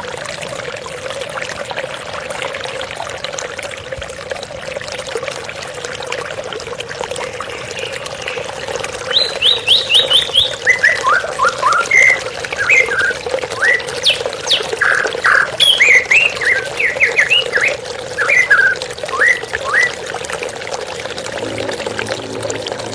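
Steady flowing water, with a songbird singing a long run of quick chirps and whistles in the middle of the stretch.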